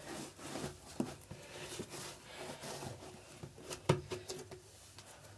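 Hands kneading and stretching sticky cloud slime: soft sticky clicks and crackles, with a sharper snap about a second in and another near the end.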